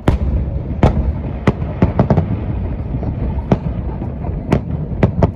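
Aerial fireworks shells bursting in irregular succession: about ten sharp bangs over a continuous low rumble of further bursts.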